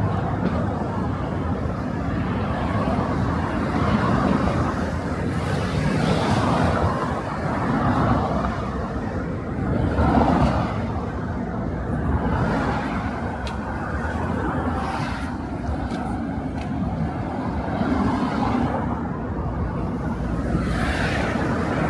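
Street traffic noise: cars passing by in slow swells over a steady background hum.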